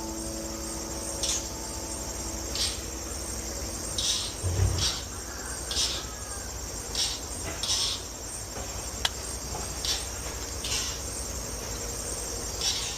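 Crickets or similar insects trilling steadily, with short high chirps repeating roughly once a second. A single low thump comes about four and a half seconds in.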